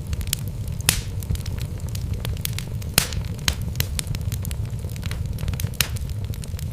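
Wood fire burning in a fireplace: a steady low rumble of the flames with irregular sharp crackles and pops from the logs, two louder pops about a second in and about three seconds in.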